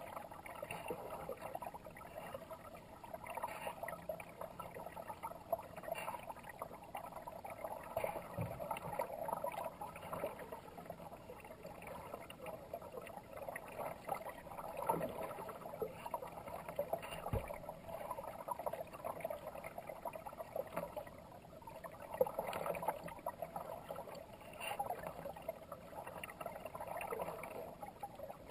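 Moving water gurgling and splashing along a kayak as it is paddled down a fast river, in uneven swells with occasional small clicks.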